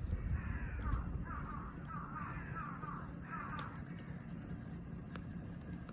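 A bird calling nearby: a run of about five harsh, falling calls in the first three and a half seconds, then it stops. Campfire crackle pops sharply now and then throughout, over a low rumble.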